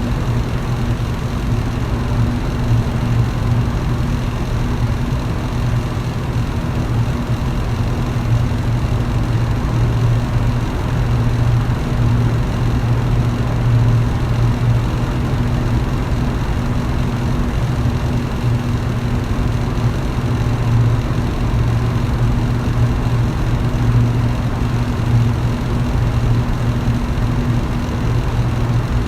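Electric fan running steadily: a constant low motor hum under an even rush of air from the blades.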